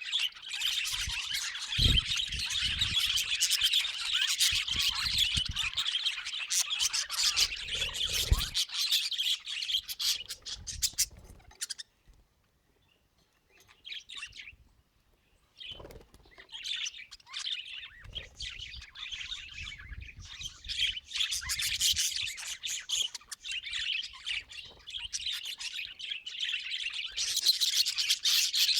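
Budgerigars chattering in fast, scratchy twitters and chirps. The chatter stops for a few seconds near the middle and then resumes, with a few low thumps in the first half.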